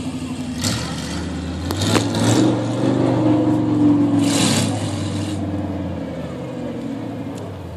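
Monster truck engine running, revving up about two seconds in and holding higher before settling back. Several short hisses are heard over it.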